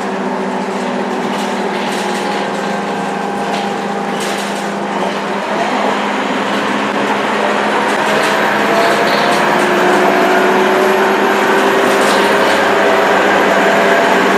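Scania K230UB bus's diesel engine pulling through its ZF automatic gearbox under acceleration: the engine note climbs from about six seconds in and grows louder, with a thin high turbo whistle joining about two seconds later, over a steady low hum and scattered cabin rattles.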